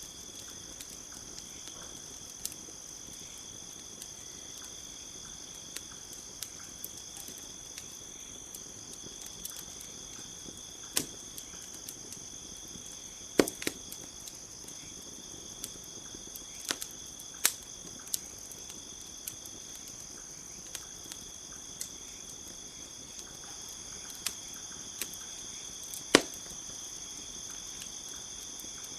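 Campfire crackling, with scattered sharp pops of burning wood, a few of them much louder, over a steady high chorus of crickets.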